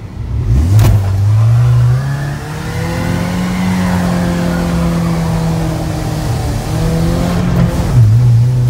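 Car engine heard from inside the cabin, revving up, climbing in pitch over the first few seconds, holding high, then dropping back near the end. A sharp knock comes about a second in.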